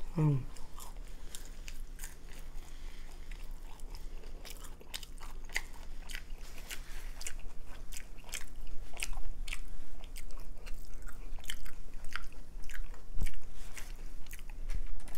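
Close-miked chewing of a mouthful of spicy ramen noodles: a run of wet mouth clicks and smacks that grows louder and more frequent in the second half.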